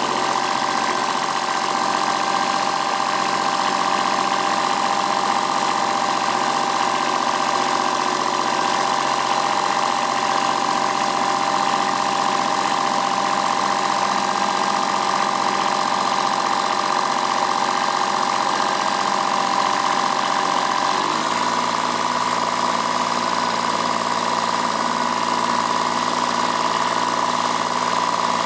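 Kubota B7001 tractor's D850 three-cylinder diesel engine running steadily, its note changing abruptly to a different engine speed about 21 seconds in.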